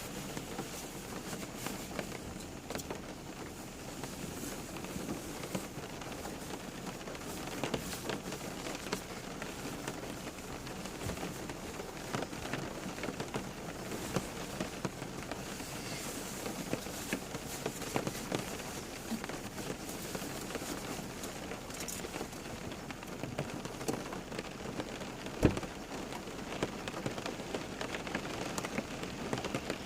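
Steady rain falling on a surface, with many close drips and drops pattering irregularly and one louder single drop knock about 25 seconds in.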